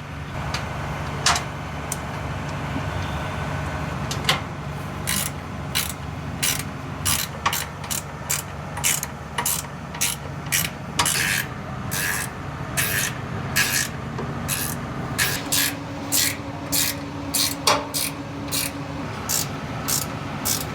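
Ratchet wrench being worked in short, quick strokes, roughly two a second, tightening a motor mounting bolt, over a steady low hum.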